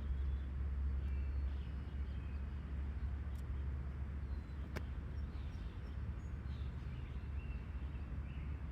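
Outdoor ambience: a steady low rumble, with small birds chirping on and off and a single sharp click about five seconds in.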